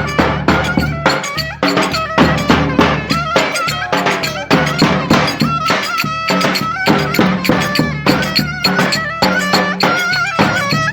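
Lively Turkish folk dance music from a live band: a pitched, ornamented melody over a quick, steady drum beat.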